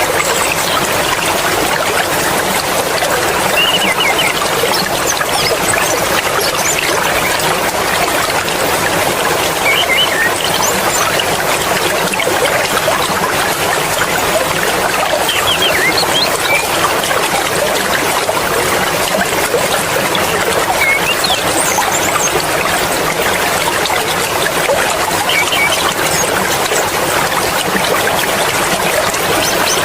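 Mountain stream flowing steadily, a continuous rushing of water. Short high bird chirps sound now and then over it.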